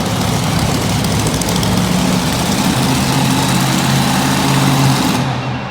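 Monster truck engine running loud with shifting engine pitch, under a dense roar of arena noise. Near the end the high hiss drops away.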